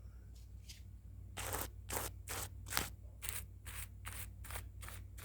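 Quick scratchy strokes of a pencil on paper, about ten in a row at two or three a second, starting a little over a second in: sketching sounds made close to the mic.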